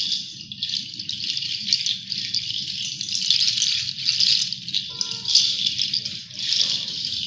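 Steady rush of flowing water, a stream or small waterfall splashing, with a crackly hiss over a low rumble.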